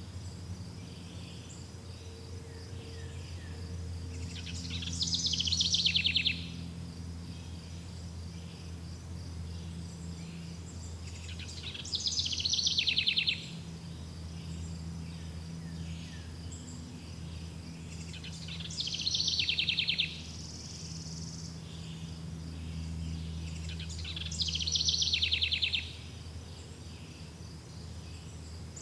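Forest ambience: a songbird sings the same short, falling trill four times, about every seven seconds, each lasting under two seconds and louder than everything else. Under it, insects chirp steadily in a fast pulsing rhythm over a low steady hum.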